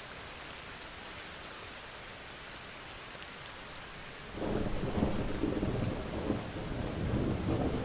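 Steady rain hissing, then about four seconds in a low rumble of thunder breaks in suddenly and rolls on in surges, louder than the rain.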